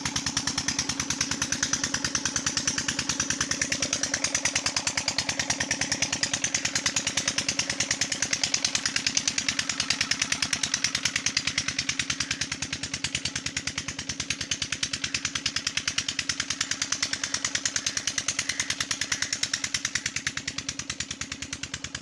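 Diesel tubewell engine running steadily, its exhaust beating in a fast, even rhythm.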